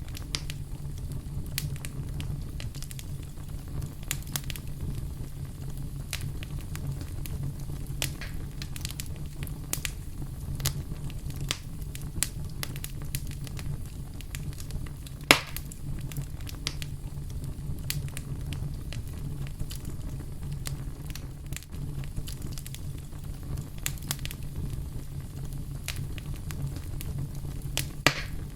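Campfire burning with a steady low rumble and scattered crackles, a sharp pop about halfway through and another near the end.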